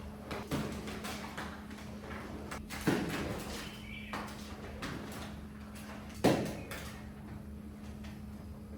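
Repeated strokes of a cleaning tool worked over a mud-soaked shaggy rug, with two heavier thumps about three and six seconds in, over a steady low hum.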